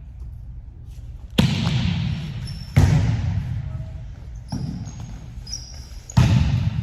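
Three sharp hits of a volleyball in a large gym hall, the first about a second and a half in, the next just under three seconds in and the last just after six seconds, each followed by a long echo.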